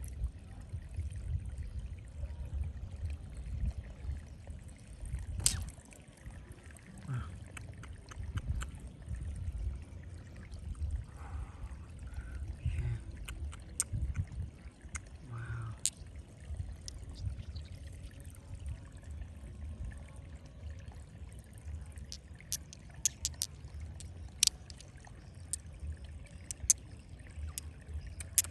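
Water sloshing and trickling over a steady low rumble, with scattered sharp clicks that grow more frequent in the last few seconds.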